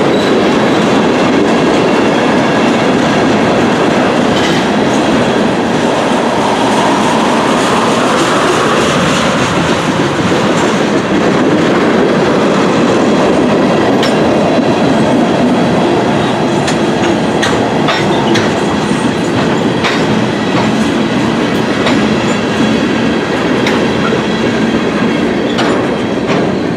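Railroad tank cars of a freight oil train rolling past, steel wheels rumbling on the rails with scattered clicks over the rail joints. The sound eases slightly near the end as the last car goes by.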